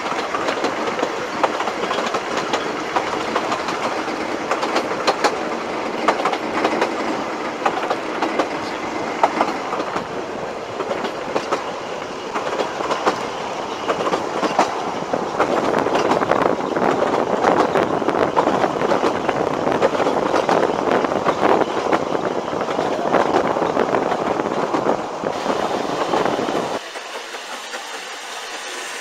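Narrow-gauge railway carriage running along the line, its wheels clattering over the rail joints with a steady rumble, heard from on board. Near the end it drops suddenly to a quieter background.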